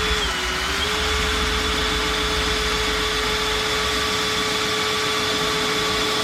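Electric drill running steadily at full speed with a constant whine, drilling with a universal drill bit.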